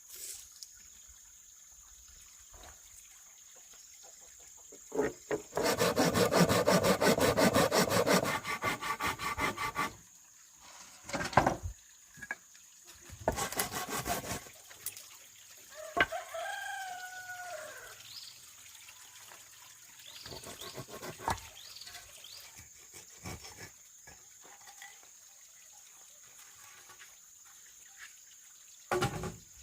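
A saw cutting bamboo in a few seconds of rapid strokes, then a shorter second run. A rooster crows once about midway, with scattered knocks around it.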